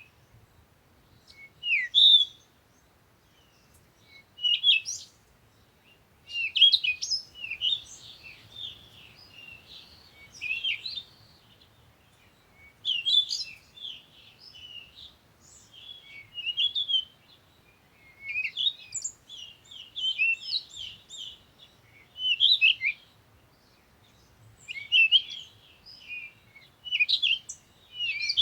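Songbirds singing in short, high twittering phrases, one every two to three seconds with brief pauses between.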